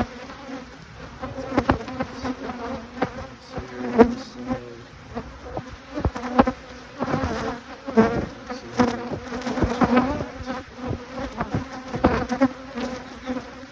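Honeybees buzzing, a steady hum with scattered knocks and clicks through it.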